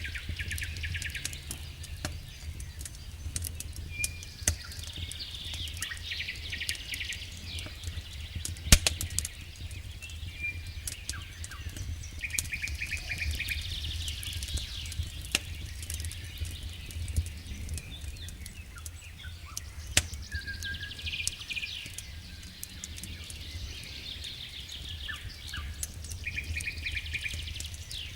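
Wood fire in a fireplace crackling, with scattered sharp pops over a steady low rumble, and recurring patches of rapid high-pitched crackle or chirping.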